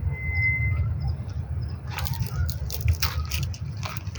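Outdoor rumble on the microphone, with a brief thin whistle near the start, then a run of sharp crackles and crunches from about halfway through.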